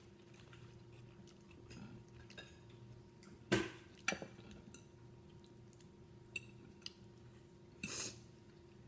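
Cutlery and plates clinking at a meal: about five sharp clinks, the loudest about three and a half seconds in and another near the end, over a faint steady hum.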